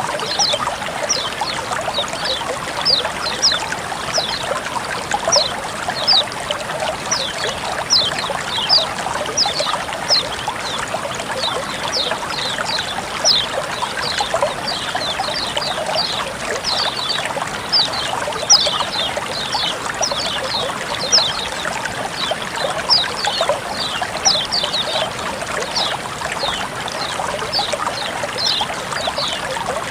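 Flowing water trickling and splashing steadily, with small birds giving many short, high, falling chirps, about two a second.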